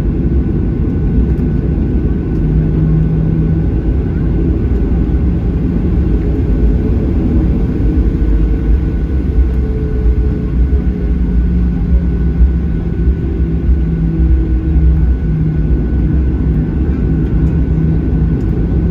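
Cabin noise of a Boeing 737-800 around its takeoff roll: a loud, steady, deep rumble with a droning hum and a faint high whine from the CFM56-7B engines.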